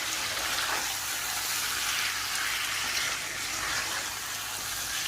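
Chicken karahi masala sizzling steadily in the pan over medium heat.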